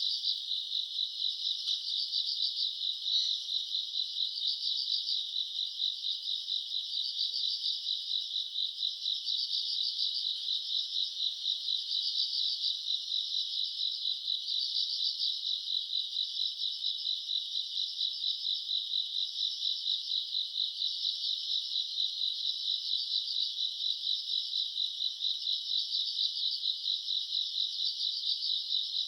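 Chorus of crickets and other grass insects chirping without a break: a dense, high-pitched, fast-pulsing trill that swells and eases every few seconds.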